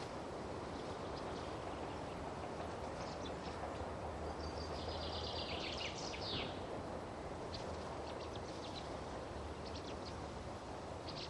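Faint high bird chirps over a steady background hiss and low hum, with a busier run of chirps about halfway through.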